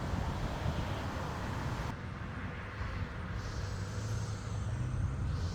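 Steady low rumble of outdoor background noise, in the way of passing street traffic, with no distinct event standing out.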